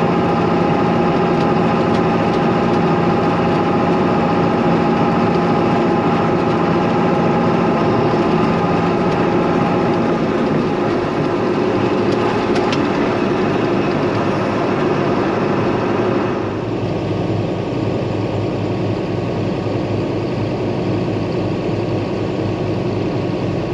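John Deere 4755 tractor's six-cylinder diesel engine running steadily at working revs. About two-thirds of the way through, the sound changes and drops a little, as the engine is throttled back or its load changes.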